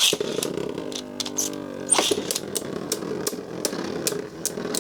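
Two Beyblade Burst tops launched into a plastic stadium: a sharp launch right at the start, then the steady whirr of the spinning tops with repeated sharp clacks as they strike each other and the stadium wall.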